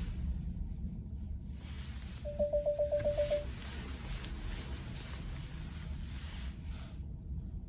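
Steady low rumble of a car being driven, with a quick run of about eight short, even beeps a couple of seconds in.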